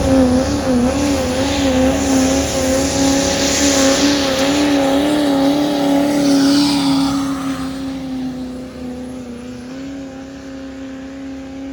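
Diesel pickup truck engine held at high revs under load during a truck pull, its note wavering up and down as the truck works against the sled, with a hiss over it. About seven seconds in it grows quieter while still holding a steady pitch.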